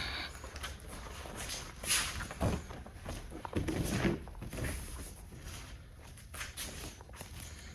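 Bare feet and bodies moving on tatami mats: soft shuffling and rustling with a few dull thumps, the clearest about two seconds in and a cluster near the middle.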